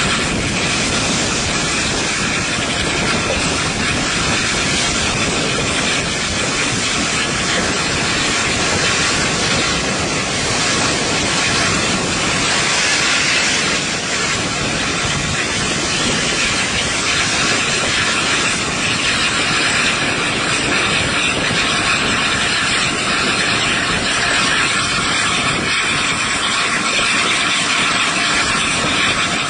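Steady rush of wind and running noise from a steam-hauled train at speed, heard with the microphone held out of a carriage window.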